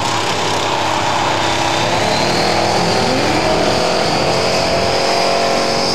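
Supercharged hot rod engine held at high revs during a burnout, its supercharger giving a steady high whistle over the engine note. Tyre noise and a second car's engine are mixed in.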